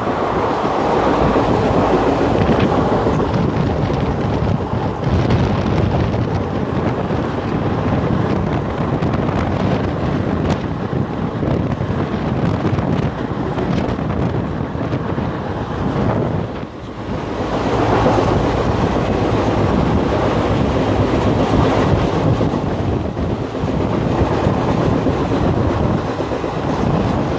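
Steady running noise of a train: a continuous rumble of wheels on rails with wind buffeting the microphone. It dips briefly about two-thirds of the way through, then swells back up.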